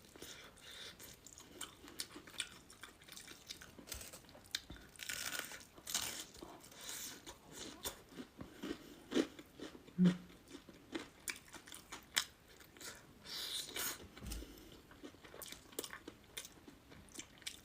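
A person chewing crisp fried hairtail fish close to the microphone: faint, irregular crunching bites and mouth sounds.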